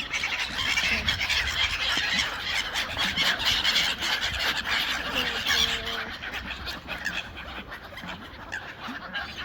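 A large flock of ducks and other waterbirds calling all at once, a dense, continuous clamour of overlapping calls as they crowd in to be fed. It eases off somewhat toward the end.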